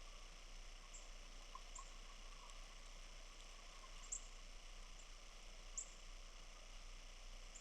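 Small birds giving faint, very high, short chirps, a few scattered across the stretch, over a soft steady hiss.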